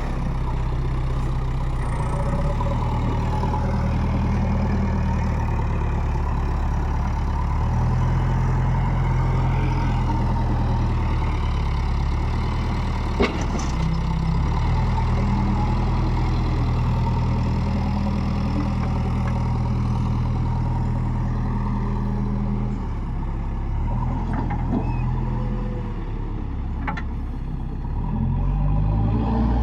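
Heavy diesel engine of a backhoe loader or tractor running under varying load, its engine speed shifting up and down several times, with a sharp click about thirteen seconds in. The engine note drops off a little past twenty seconds and picks up again near the end.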